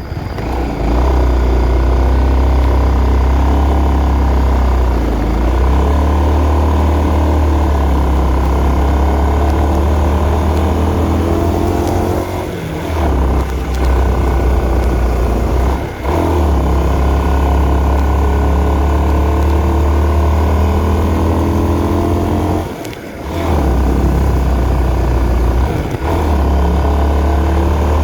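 Honda CB150R's single-cylinder engine running under way, its revs rising and falling over a heavy low rumble; the sound dips briefly about four times.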